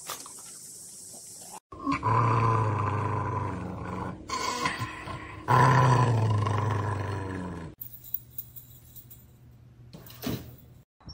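An animal's loud, drawn-out growling cry, heard twice: once from about two seconds in, and again just after four seconds.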